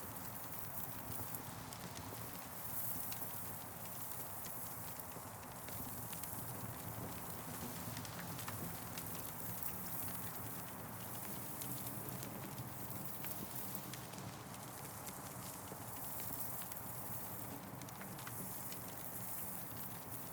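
Campfire burning, crackling with frequent small irregular pops over a steady low rumble and hiss.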